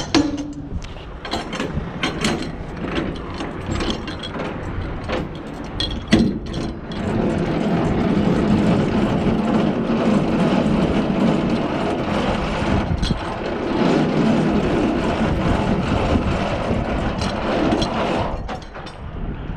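Semi-trailer landing gear being hand-cranked down, its gearbox clicking and grinding. A few separate clicks and knocks come first, then steady cranking runs from about seven seconds in until near the end.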